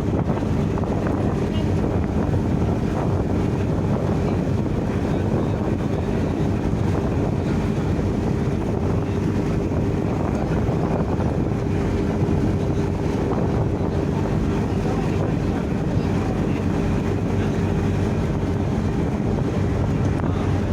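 Passenger ship's engine running with a steady low hum, mixed with wind buffeting the microphone.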